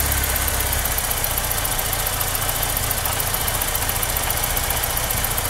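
BMW E30's M42 inline-four engine idling roughly, with an uneven low pulsing. The rough idle persists despite a new throttle position sensor, a changed air flow meter, a different idle control valve, cleaned injectors and new vacuum hoses; its cause is not found.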